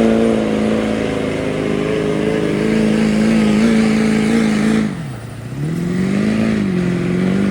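Stock diesel pickup truck engine running at high revs while pulling the sled. About five seconds in the revs dip sharply, then climb back and hold steady.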